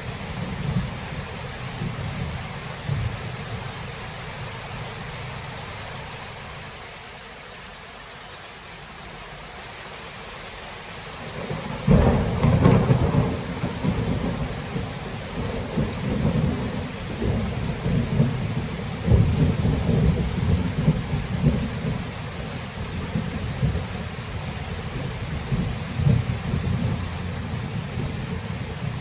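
Steady rain with rolling thunder. A low rumble dies away over the first several seconds, then a sudden loud thunderclap about twelve seconds in breaks into a long rumble that rolls on and slowly fades.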